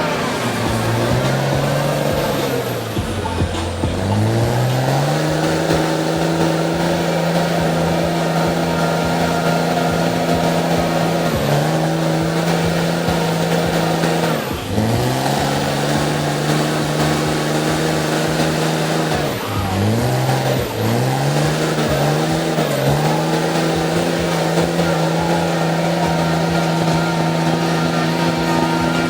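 A mega truck's engine held at steady high revs under load, the revs dipping and climbing back several times, over a haze of noise.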